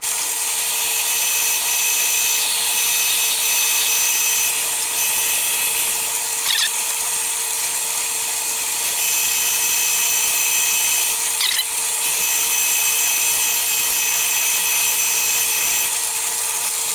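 A 5/8-inch drill bit cutting a steady hole in a metal workpiece on a running machine tool, a constant cutting hiss over the motor's steady hum, with two brief high squeals partway through.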